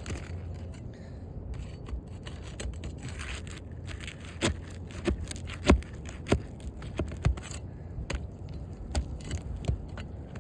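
Roofing nails being worked loose from asphalt shingles: a metal tool scraping against the shingles with a run of sharp clicks and taps, the loudest a little past the middle, over a steady low rumble.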